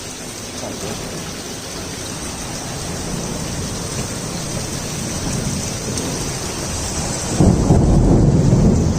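Heavy rain falling steadily with rolling thunder: a low rumble builds slowly and turns loud about seven seconds in.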